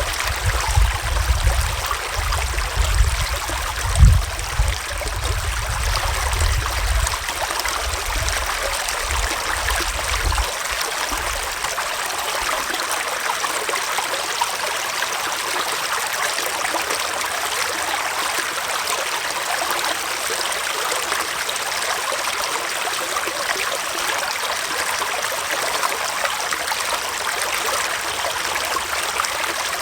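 Small forest stream flowing and trickling steadily. An uneven low rumble sits under it for the first twelve seconds or so, with one louder bump about four seconds in, then stops.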